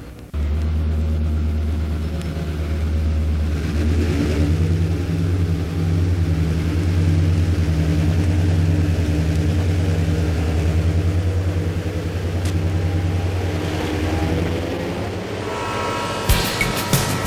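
Steady low rumble of a locomotive engine running, cutting in suddenly at the start and holding even. Music comes in near the end.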